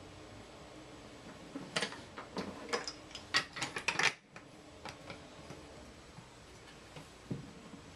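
Toy train pieces clicking and clattering together as they are handled, a quick cluster of knocks about two to four seconds in, then a few scattered ticks.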